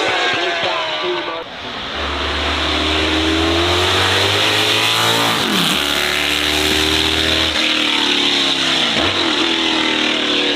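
Race car engine accelerating hard, its pitch climbing and then dropping sharply at gear changes: once about halfway through and again near the end. A deep low rumble sits under the engine for several seconds in the middle.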